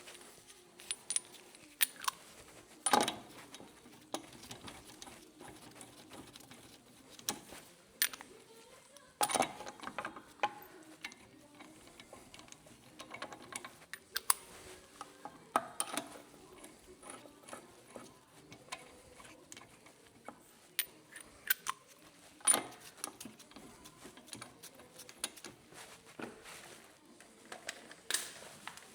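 Metal hand tools and suspension parts being handled while a coilover is refitted: irregular metallic clicks, taps and clanks, with a few louder clanks spread through.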